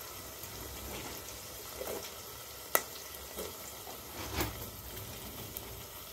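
Chopped onion and green chilli frying in oil in a steel pot, a steady soft sizzle, as chopped tomatoes are added and stirred in. A sharp clink about three seconds in and a few softer knocks of the steel ladle against the pot.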